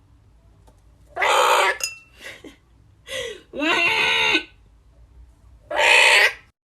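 A pet bird calling: five short calls, each under a second long, with pauses between them. The second call is fainter.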